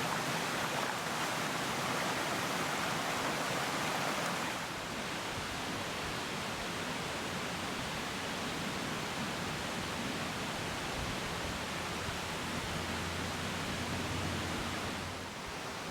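Steady rushing of water from a waterfall, an even hiss-like roar that turns duller about four and a half seconds in.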